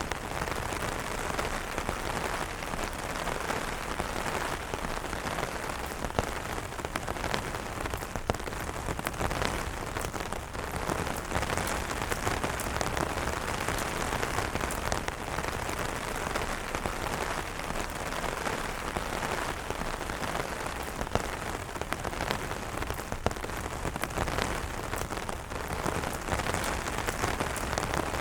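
Steady rain falling on umbrellas, a constant hiss with a dense patter of individual drops striking the fabric.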